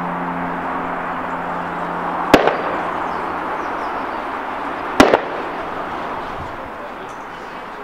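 Steady running rumble of a train carriage rolling on jointed track, heard from on board, with a low engine hum that fades in the first few seconds. Twice, about two and a half seconds apart, a sharp double clack rings out, the loudest sound: wheels striking rail joints.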